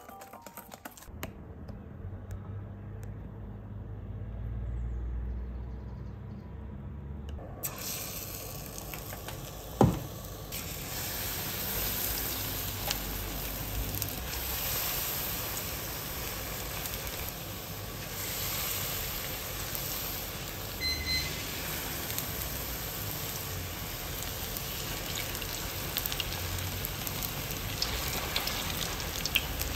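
Battered gimmari (seaweed rolls) deep-frying in hot oil in a pan: a steady sizzle that starts abruptly about eight seconds in, with a single sharp knock just before ten seconds. Before it, a dull low sound of batter being mixed in a steel bowl.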